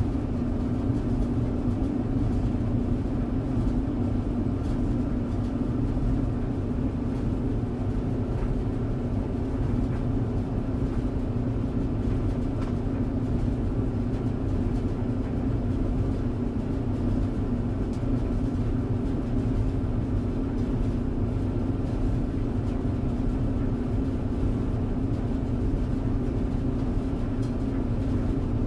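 Tumble clothes dryer running: a steady low hum and rumble that holds an even level throughout.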